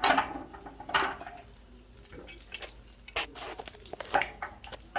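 Hand tools working on a water heater's pipe fittings: two short hissing rushes near the start and about a second in, then scattered clicks and scrapes of metal on metal.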